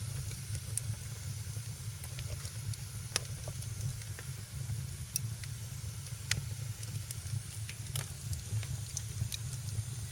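Wood fire crackling in a fireplace: sharp pops and snaps every second or two over a steady low rumble and a faint hiss.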